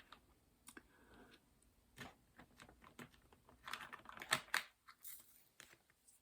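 Faint, scattered small clicks and taps of diamond painting: a drill pen picking up plastic resin drills from a tray and pressing them onto the sticky canvas, with a quicker cluster of clicks about four seconds in.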